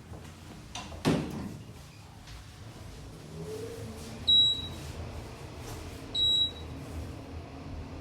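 Otis Gen2 elevator car travelling down: a knock with a low thud about a second in as the doors shut and the car sets off, then a low hum of the moving car. Three short, high beeps sound about two seconds apart, one for each floor passed on the way down to the second floor.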